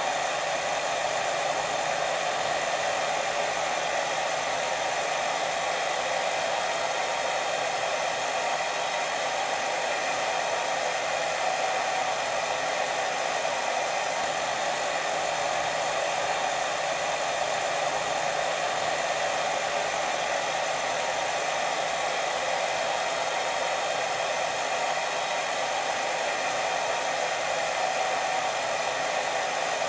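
Steady white-noise hiss for sleep, even and unbroken, with no change in level.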